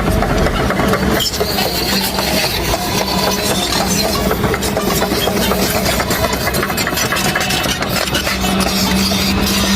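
Radio-controlled scale construction machinery running with a steady, engine-like drone.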